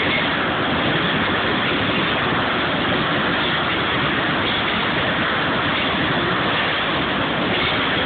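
Iowa Interstate Railroad train rolling past, a steady, even rumble of wheels on the rails.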